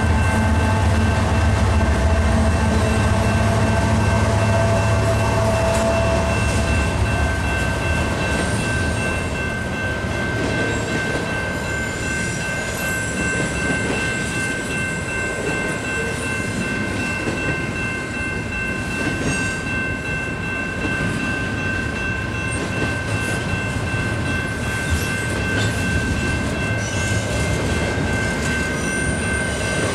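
A freight train passing close by a level crossing. A diesel locomotive's engine hums low for the first several seconds, then double-stack container well cars roll past with steady wheel rumble and clatter and a few faint high wheel squeals. The crossing bell rings steadily throughout.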